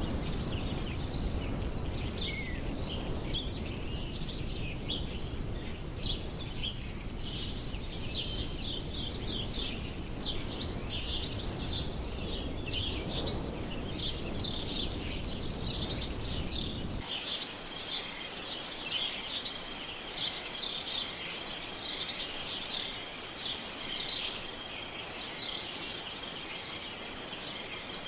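Many small birds chirping and calling over a low, even background rumble. About two-thirds of the way through the background changes abruptly: the rumble drops out and a steady high hum runs under the chirps.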